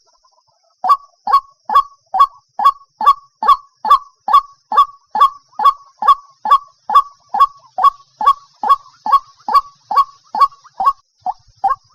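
White-breasted waterhen calling: a monotonous run of harsh, loud, falling 'kwak' notes, about two to three a second, starting about a second in.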